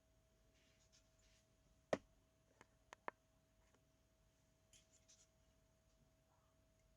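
Small hard objects handled on a work surface: one sharp click about two seconds in, three lighter clicks just after, and faint scraping before and after, over a faint steady hum.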